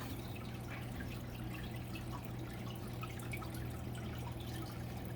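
Aquarium water trickling and dripping, likely from the tank's filter, over a steady low hum.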